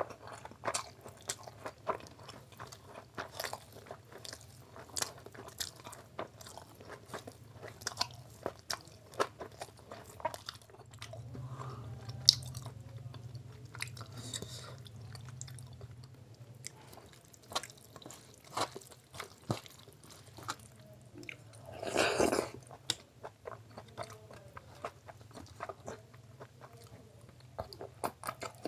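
Close-miked mouth sounds of eating curry and fried rice by hand: steady chewing with many short wet clicks and crunches, and one louder half-second burst of noise about three-quarters through. A low steady hum sits underneath.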